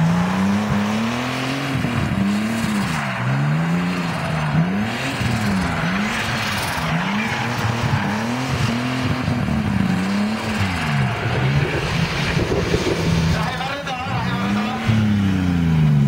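Turbocharged BMW E30 engine revved hard and let fall again and again, about once a second, as the car drifts in circles, its rear tyres squealing in wheelspin. The revs hold steady for a couple of seconds before one last rise near the end.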